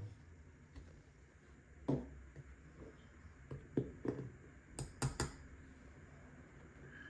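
A few light, scattered knocks and clicks of objects being handled and set down.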